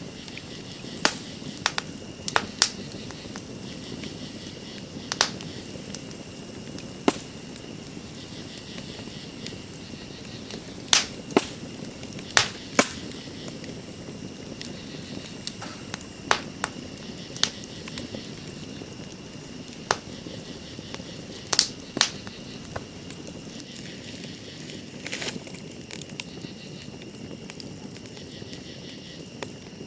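Campfire crackling: sharp, irregular pops over a low steady rush of burning wood. Night insects keep up a steady high trill throughout.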